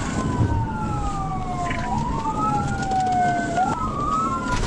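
Police cruiser sirens wailing in a pursuit, two wails overlapping out of step, each rising quickly and falling slowly, over the steady rumble of the moving car.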